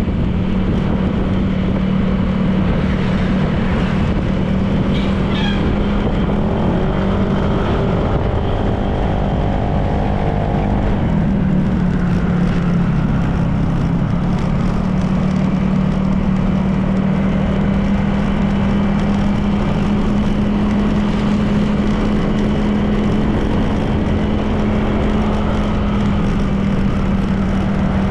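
Honda PCX 160 scooter's single-cylinder engine running at a steady cruising speed, with road and wind noise. For a few seconds, about a quarter of the way in, a second, higher rising tone joins it.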